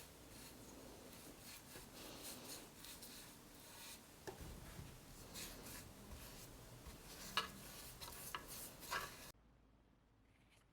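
Hand work rubbing and scraping on the surface of a gessoed wooden mirror frame: a steady rasping rub with a few sharper scrapes and clicks. It cuts off suddenly about nine seconds in.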